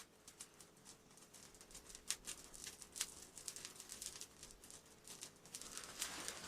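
Faint, irregular small crackles and rustles of bark kindling in a small wood stove that is being lit but is barely catching.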